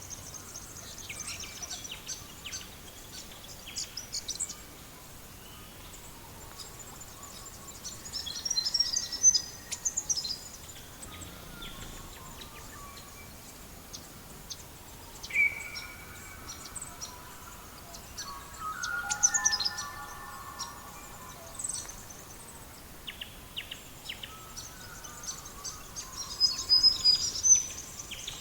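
Birds singing in several bursts of high chirps and trills over a steady low hiss of background noise, with one short clear whistled note about halfway through.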